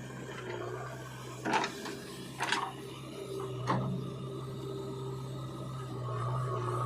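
Heavy diesel machinery running steadily, with three sharp clanks about a second apart in the middle.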